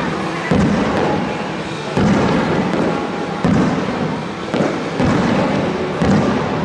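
Aerial firework shells bursting, five booms about a second and a half apart, each dying away slowly.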